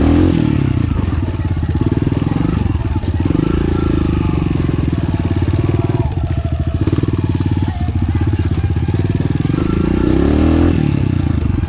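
Enduro dirt-bike engine running under load on a rough trail, its revs rising and falling as the throttle is worked.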